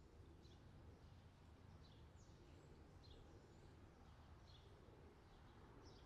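Faint outdoor summer ambience: small birds giving short chirps about once a second over a low steady rumble.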